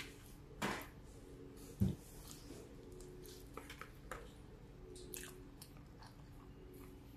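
Close-up eating sounds: spaghetti with meat sauce being bitten and chewed, with scattered wet mouth clicks and smacks. A louder low thump about two seconds in.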